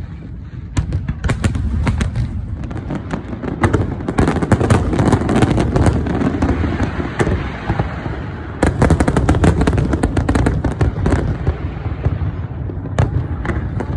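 Fireworks going off in rapid succession: many sharp bangs and crackles over a continuous low rumble. The bursts come thickest in two volleys, the first starting about four seconds in and a heavier one about two-thirds of the way through.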